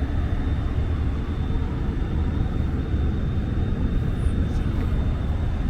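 Steady low rumble of wind and aircraft machinery at a Boeing 747-8's open escape hatch, with a thin, steady high-pitched whine over it.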